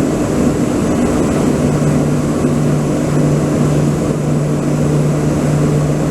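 An engine running steadily: a constant low hum under a loud rushing noise.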